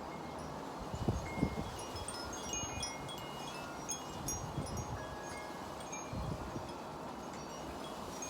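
Wind chimes ringing irregularly, many short notes at different pitches, with gusts of wind rumbling on the microphone about a second in and again around six seconds.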